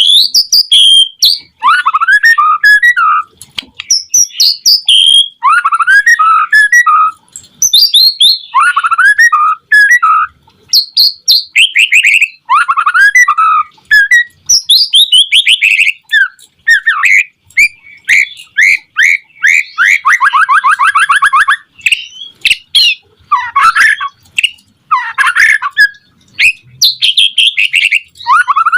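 White-rumped shama singing loudly in full song: a run of varied, rich whistled phrases with brief pauses between them, and a fast rattling trill about twenty seconds in.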